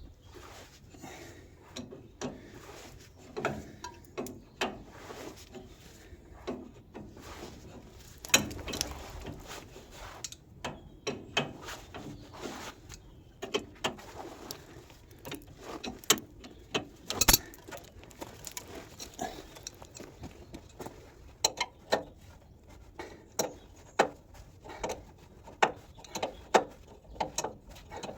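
Hand tools clinking and knocking on the metal fittings of a vintage engine's fuel pipe and tank as they are undone: a long, irregular run of short, sharp clicks and taps, a few of them louder knocks.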